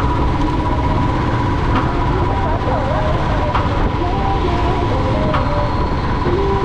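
Royal Enfield Classic 350's single-cylinder engine running steadily on the move, under loud, even low-pitched road noise, with short snatches of higher tones over it.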